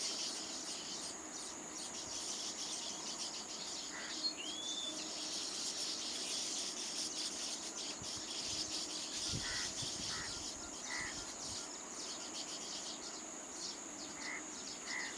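Steady, high-pitched chorus of insects, likely crickets, with a few short bird chirps and one curved call scattered through it.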